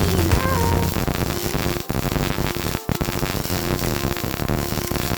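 MIG welding crackle as a bracket is welded onto a steel stand, with two brief breaks in the arc about two and three seconds in.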